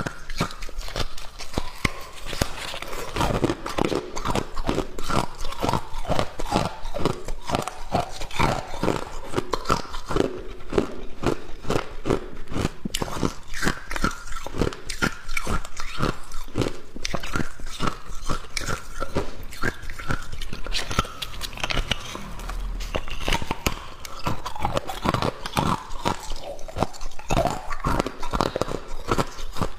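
Hard ice being bitten and chewed close to the microphone: a dense, irregular run of sharp crunches and cracks, several a second.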